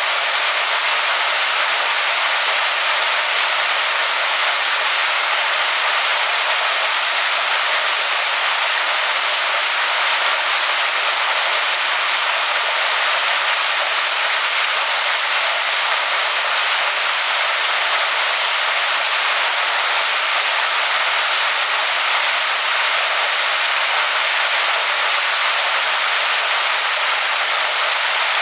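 Waterfall splashing onto rocks: a steady, even hiss of falling water with no deep rumble.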